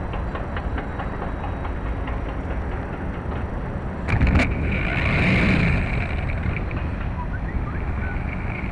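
Strong wind buffeting the microphone as a steady low rumble, with a quick cluster of knocks about four seconds in followed by a louder rushing swell for a second or so.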